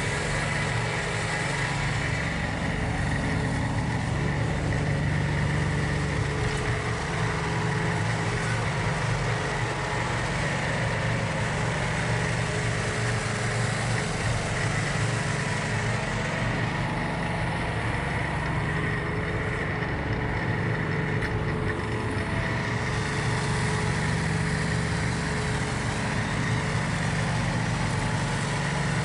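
John Deere 4110 compact tractor's three-cylinder diesel engine running steadily.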